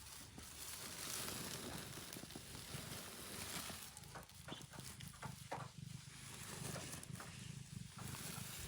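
Faint rustling and light scratchy sounds as a hand feels around under a sitting cat for eggs, over a low steady rumble.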